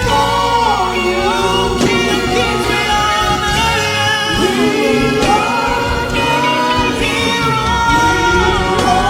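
Gospel worship song: sung melody over steady instrumental accompaniment.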